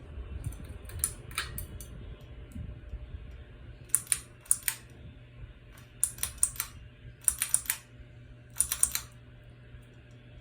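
Steady low hum from a Harbor Breeze Breezeway ceiling fan running, with several short clusters of sharp clicks over it.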